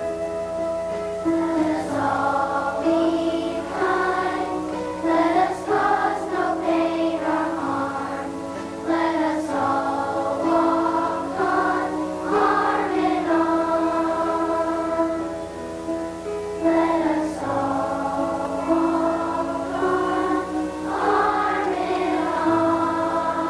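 Elementary school children's choir singing a sustained, held-note song.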